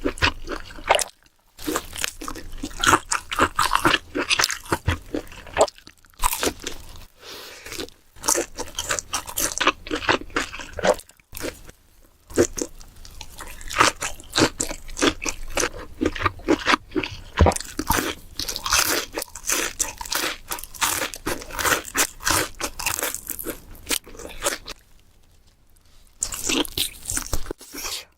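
Close-miked eating: crunchy bites and chewing, a dense run of sharp crackles broken by a few short pauses, the longest near the end.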